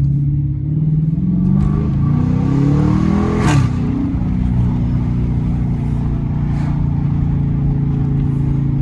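Straight-piped Dodge Challenger R/T's 5.7-litre Hemi V8 under hard acceleration: the exhaust note climbs in pitch for about three seconds, gives a sharp crack as it shifts, drops in pitch, and settles into a steady loud drone.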